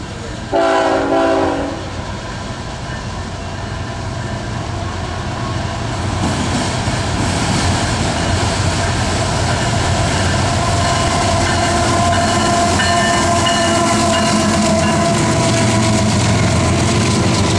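A BNSF freight locomotive horn gives one short multi-note blast about half a second in. Then the engines and rolling noise of an intermodal train led by four GE GEVO diesel locomotives (an ET44C4 and three ES44C4s) grow steadily louder as it approaches and passes close by.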